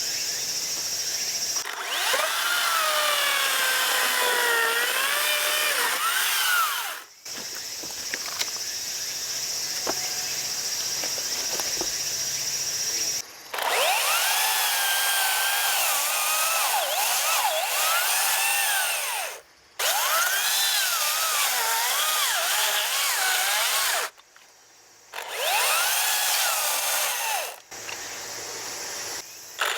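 Battery-powered Makita chainsaw cutting through wood in four passes, its motor whine sagging in pitch as the chain bites and recovering between bites. Between cuts it runs quieter with a high steady whine, and stops briefly twice.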